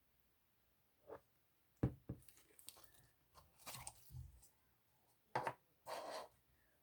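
A handful of short, scattered handling noises, sharp knocks and brief rustles, with the loudest knock about two seconds in.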